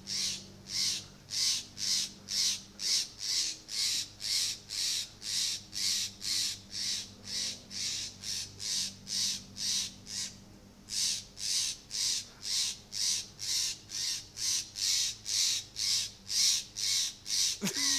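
A bird's scolding calls repeated steadily, about two and a half a second, with a brief break about ten seconds in: a parent bird mobbing a cat that killed its young.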